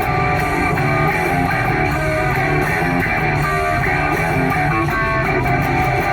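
Electric guitar playing a rock tune, single notes and strummed chords over a steady low part.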